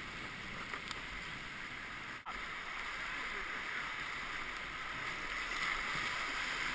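Rushing whitewater of river rapids: a steady hiss, growing a little louder near the end, with a momentary dropout about two seconds in.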